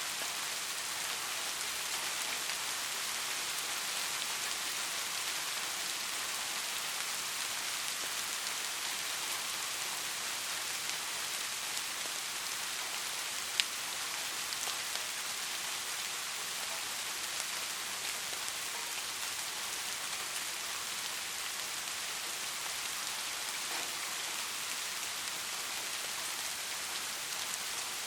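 Soft rain falling steadily, an even hiss of many raindrops, with a single sharp tick about halfway through.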